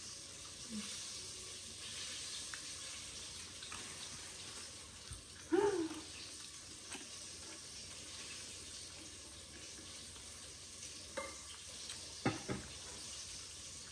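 Steady hiss of chicken frying in hot oil, with a brief hummed 'mm' about halfway through and a few light knocks near the end.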